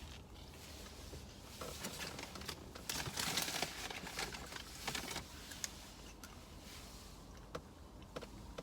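Paper food wrapping rustling and crinkling as it is handled, in a run of crackly bursts loudest a few seconds in, with scattered small clicks.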